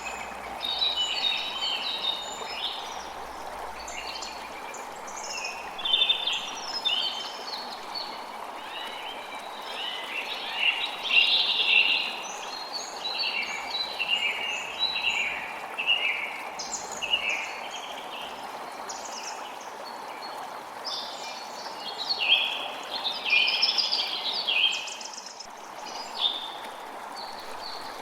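Several birds singing and chirping at once, in overlapping phrases, over the steady rush of a creek.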